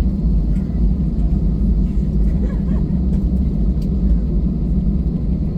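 Jet airliner cabin noise: the engines and rushing air give a loud, steady low rumble.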